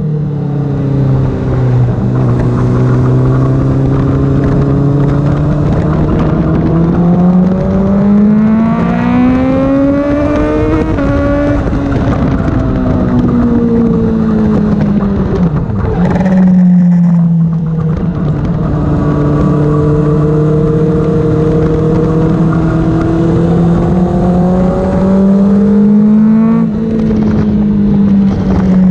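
Honda CBR600RR inline-four engine at speed on a race track, its revs climbing and dropping with throttle and gear changes. There is a long steady climb about a third of the way in and a sharp drop about halfway, over a rush of wind noise.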